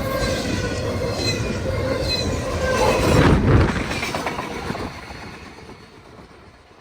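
Freight train rolling past: a steady rumble of wheels on rail with thin squealing tones over it, a louder rush about three seconds in, then fading away as the train moves off.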